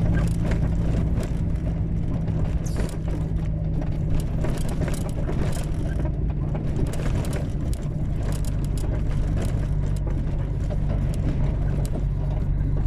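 Truck engine running steadily under way, heard from inside the cab, with road noise and frequent small knocks and rattles. The low hum is less even through the middle and settles back near the end.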